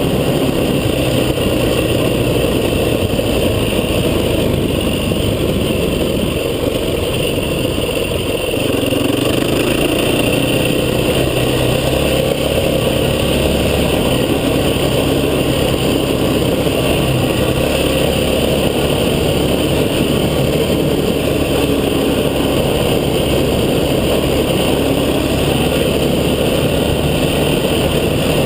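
Off-road vehicle's engine running steadily while driving along a track, with a slight easing of the engine around a quarter of the way in.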